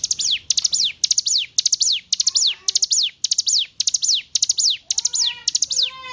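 Ciblek gunung (hill prinia) singing a fast, repeated phrase about twice a second: a quick stutter of high notes, then a sharply falling whistle. A softer, lower chirping joins near the end.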